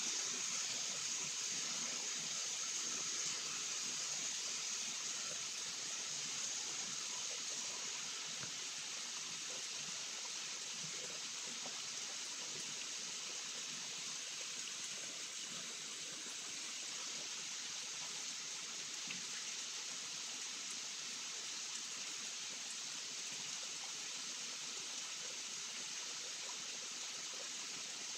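Rain falling steadily, an even hiss of water with no thunderclaps, easing very slightly over the first several seconds.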